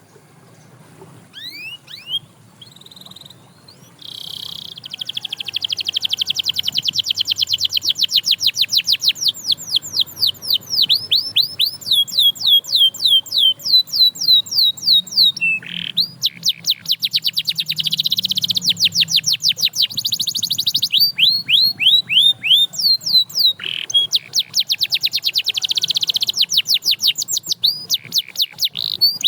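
Domestic canary singing: after a few short calls, long rapid trills of quickly repeated notes, each falling in pitch, broken by brief pauses and changes of note.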